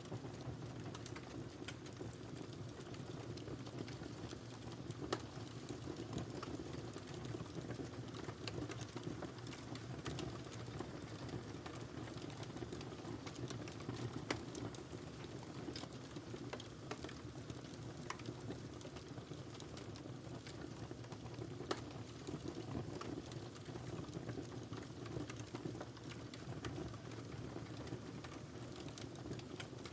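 Wood fire crackling in a fireplace: a steady low rumble of burning logs with frequent small snaps and pops, and a few louder pops about five, fourteen and twenty-two seconds in.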